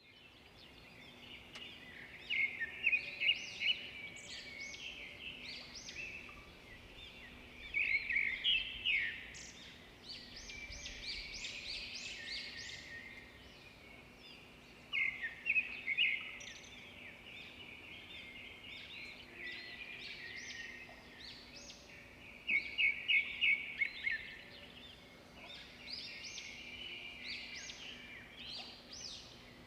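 Birds chirping and calling, with a burst of rapid, louder chirps every several seconds.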